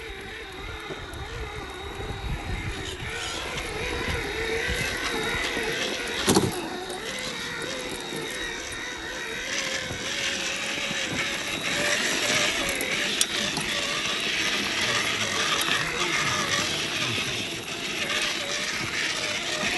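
1/10-scale RC truck's motor and gears whining as it drives, the pitch wavering up and down with the throttle. One sharp knock about six seconds in.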